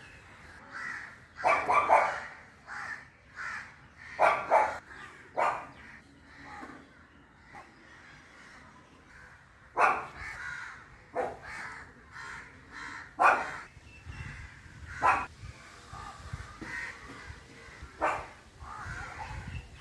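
Short, loud animal calls repeated at irregular intervals, about a dozen times, over fainter background calls.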